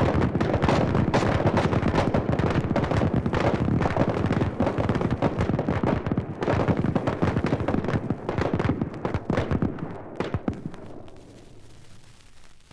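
Dense, overlapping gunfire, many shots close together with no gaps, thinning out and dying away about ten seconds in.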